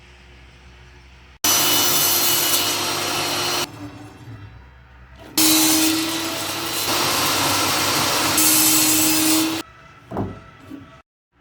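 Table saw cutting wooden boards to length: two cuts, the first about two seconds long starting just over a second in, the second about four seconds long, with a much quieter steady running sound between them.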